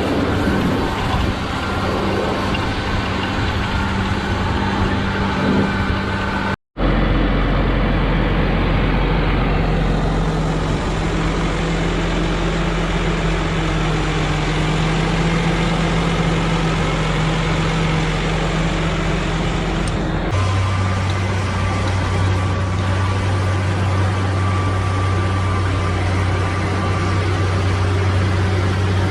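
Heavy diesel farm machinery engines running steadily under load, in cut-together shots. The sound drops out for an instant about a quarter of the way in, and its pitch drops lower about two-thirds of the way through.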